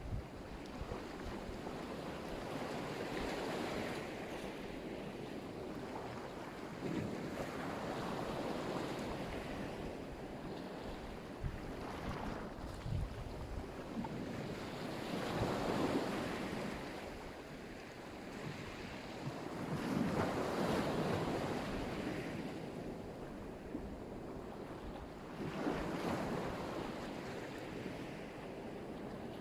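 Black Sea surf: waves breaking and washing up the shore in a steady roar that swells and eases about every four to five seconds.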